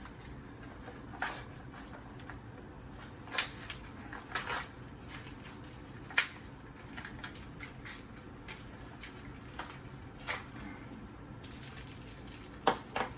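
Packaging of new closet pole sockets being opened and handled, with a scattering of sharp crackles and clicks, the loudest about six seconds in and two close together near the end.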